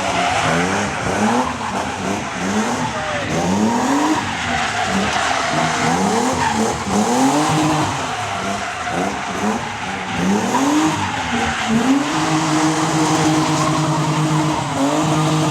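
Drift car's engine revving up and falling back over and over as it slides, with tyres screeching. For the last few seconds the engine is held at steady high revs.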